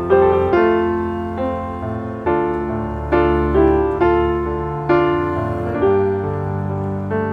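Background piano music: slow, gentle chords and notes struck every half second to a second, each decaying before the next.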